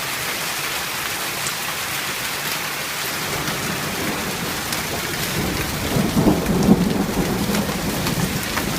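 Heavy hail and rain pelting down in a steady hiss, with scattered sharp ticks of hailstones. About six seconds in, a rumble of thunder rolls through.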